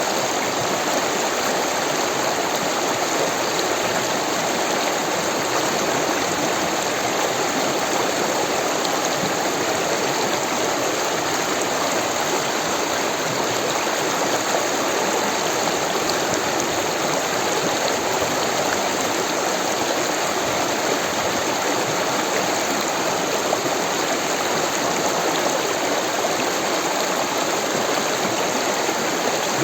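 Rushing water of a stream, a steady, even flow with no breaks.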